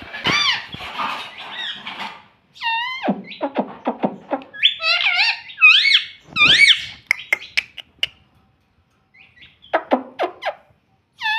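Pet ringneck parrot calling: a string of short, high squawks and warbling chirps that swoop up and down in pitch, in three groups with brief pauses between them.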